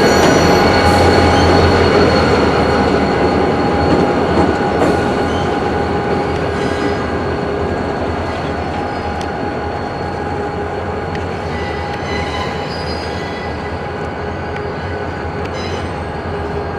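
Railroad freight cars rolling on yard track, wheels squealing steadily on the rails over a low rumble, slowly getting quieter.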